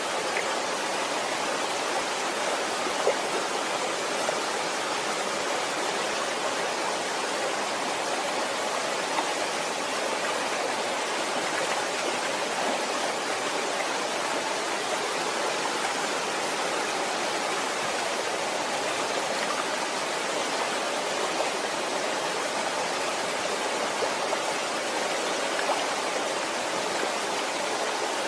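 Waterfall: steady rushing of falling water, with a few brief louder splashes.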